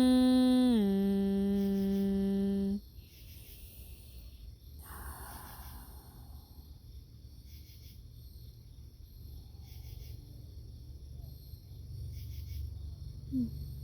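A long, steady hummed vocal tone, stepping down in pitch about a second in and cutting off near three seconds. After it, faint high chirps like crickets come and go over a low steady background hum.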